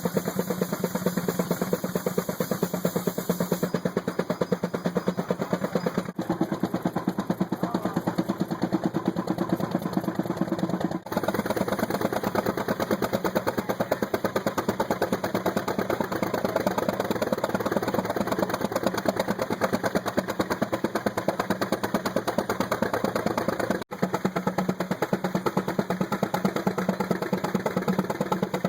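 Tractor engine running hard with a rapid, steady exhaust beat. The sound cuts out for an instant three times.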